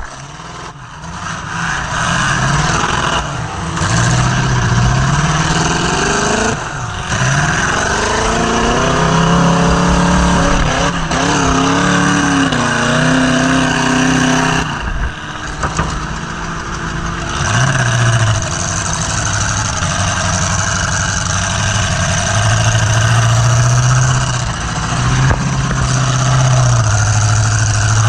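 Demolition derby car's engine revving hard, its pitch climbing and falling again and again as the throttle is worked, with a few brief cut-outs. Heard from on board the car.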